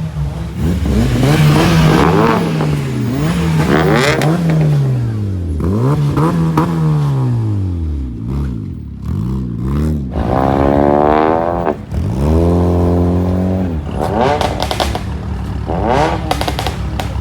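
Car engine revved hard again and again, its pitch climbing and dropping with each blip, held high twice around the middle, with a string of sharp cracks in the last few seconds.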